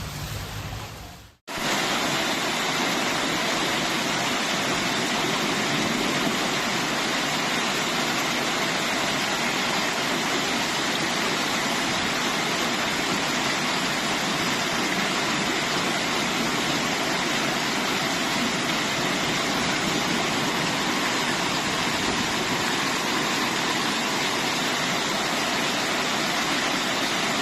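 Heavy hail coming down: a dense, steady roar of countless impacts that starts abruptly about a second and a half in and holds level.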